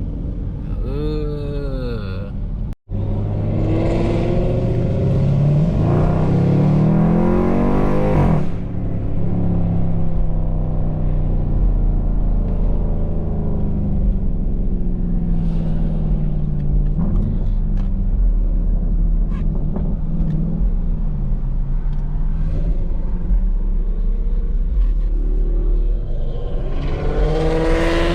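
Dodge Durango SRT 392's V8 engine accelerating hard, its pitch climbing for about five seconds before dropping off suddenly, then running steadily at cruising speed, with another rise near the end. The sound drops out for an instant about three seconds in.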